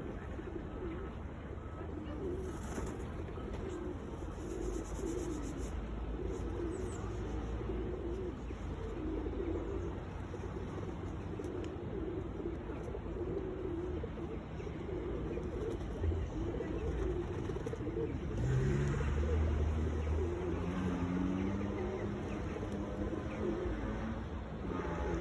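Several pigeons cooing continually, their low coos overlapping, over a steady low rumble. A low hum rises in pitch about three-quarters of the way through.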